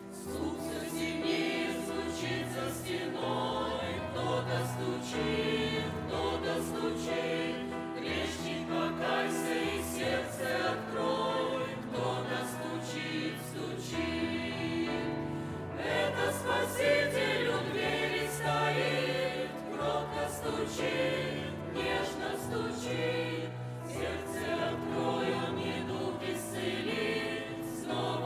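A church choir singing a Christian song, with sustained, overlapping voices.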